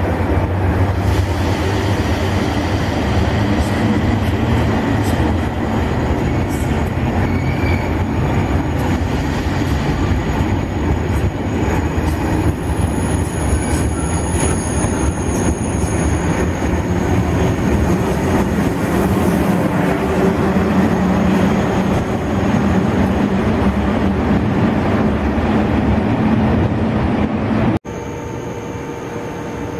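Thalys high-speed train running along the platform close by: a steady rolling rumble, with a thin high wheel squeal in the middle. After a sudden cut near the end, a quieter steady electric hum with two constant tones from a Class 186 electric locomotive standing at the platform.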